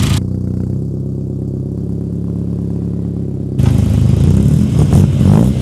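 BMW S14B20 2.0-litre inline-four on individual throttle bodies, running at a steady, even note. About three and a half seconds in it turns louder and is blipped up and down in quick revs.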